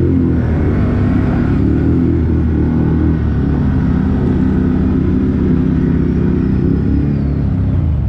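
ATV engine running steadily on the move, its pitch shifting only slightly.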